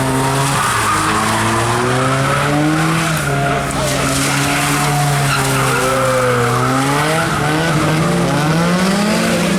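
Car engine held high in the revs while its tyres spin on wet pavement in donuts, with tyre noise. The engine note stays steady for several seconds, then rises about three quarters of the way through.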